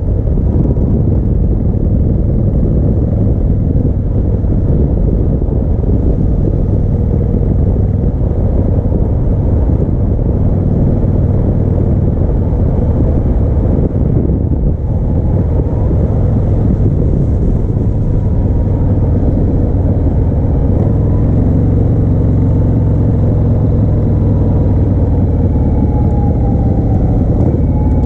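1988 Harley-Davidson Heritage Softail's Evolution V-twin engine running steadily under way.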